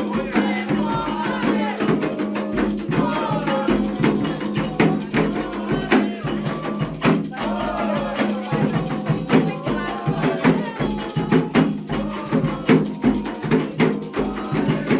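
Candomblé ritual music: drums and a struck percussion instrument keep a steady, dense rhythm while voices sing a chant over it.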